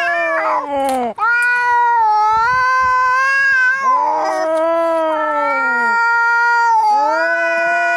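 Angry cat caterwauling: a run of long, drawn-out yowls, each lasting two to three seconds, rising and then sliding down in pitch, one after another with only brief breaks.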